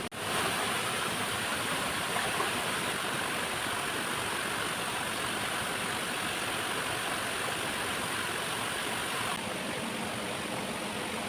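Steady rush of a waterfall's falling water, dropping a little in level near the end.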